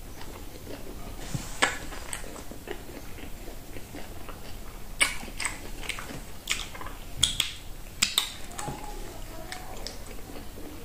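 Close-miked mouth sounds of a person chewing food with lips closed, with scattered wet smacks and clicks that come more often in the second half.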